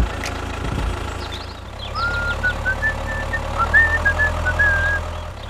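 Tractor engine running steadily as a low hum, with a string of short, high chirping notes over it from about two seconds in.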